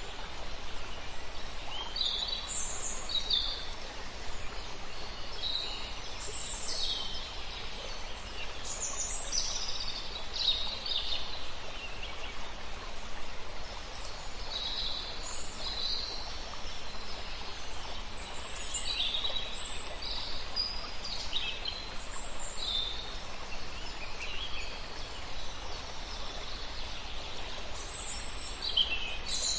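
Several birds calling and singing: many short, high chirps and whistles from different birds, overlapping at irregular intervals, over a steady background hiss of outdoor noise.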